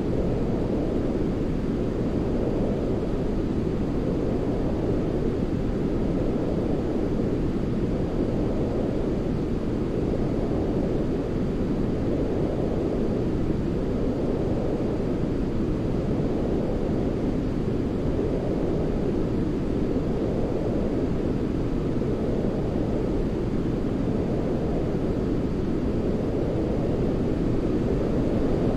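Continuous white-noise sleep track, deep and rumbling like brown noise, with its weight in the low end. It swells gently and eases off again about every four seconds.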